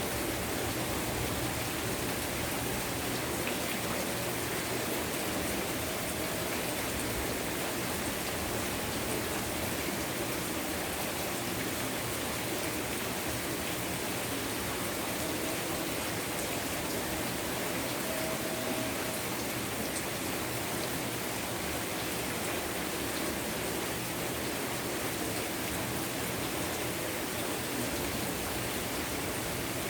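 Heavy rain falling steadily, an even hiss that holds without a break.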